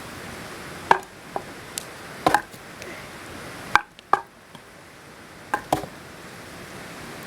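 Irregular sharp wooden knocks and cracks, about eight of them, some in quick pairs, over a steady background hiss.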